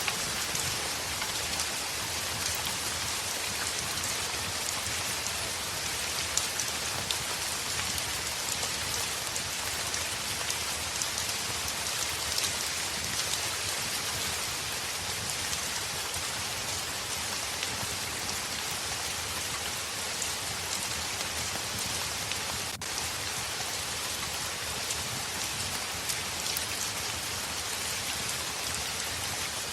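Heavy rain falling steadily on a window: a dense, even hiss with scattered sharp drop ticks.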